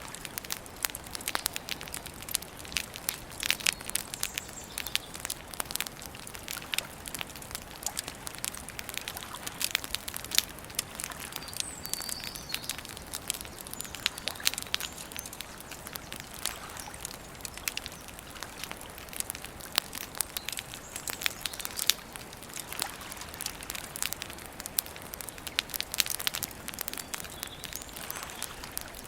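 Wood campfire crackling steadily, with frequent sharp snaps and pops, and a few bird chirps here and there.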